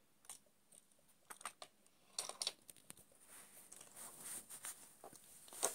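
Faint, scattered clicks and taps of plastic toy animals being handled, with a slightly louder click near the end.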